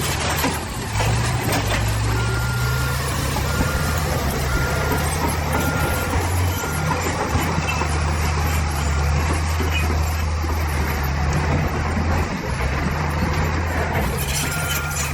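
Heavy diesel machinery running steadily, with a backup alarm beeping repeatedly for a few seconds from about two seconds in and again near the end.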